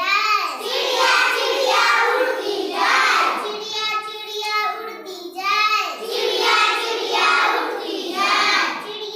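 A child singing a Hindi children's rhyme in a high voice, in phrases of about a second each with pitch sliding up and down.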